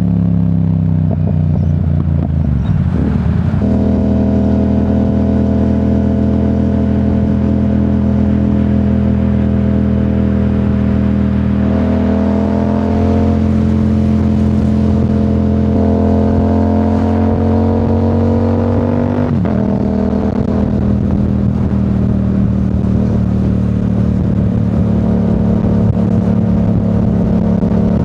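2025 Yamaha R7's 689 cc crossplane parallel-twin running through a Yoshimura AT2 full exhaust under way. The engine note drops over the first couple of seconds, then holds a fairly steady cruising pitch with a few abrupt steps up and down in engine speed.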